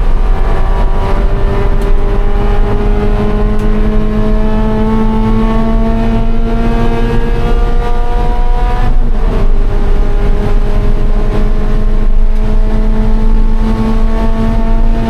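2013 Scion FR-S's 2.0-litre flat-four engine pulling hard under full throttle, its pitch rising steadily. About nine seconds in the revs drop sharply with an upshift, then climb again.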